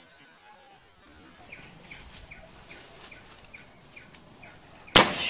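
A bird calling in a run of short, falling chirps, about three a second. Near the end a single sudden loud bang cuts across it.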